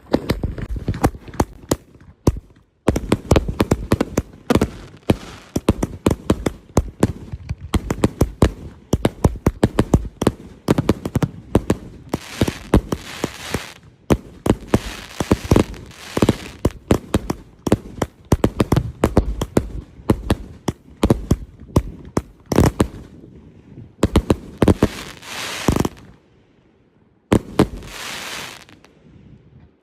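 Two 30-shot 500-gram consumer fireworks cakes firing: a rapid, uneven string of launch thumps and aerial bursts with crackling, pausing briefly twice before a last few shots near the end.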